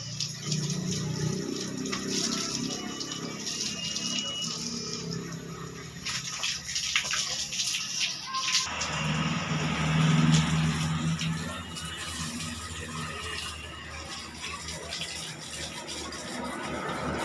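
Water running and splashing while a motorcycle is washed, with music playing beneath; the sound changes abruptly about nine seconds in.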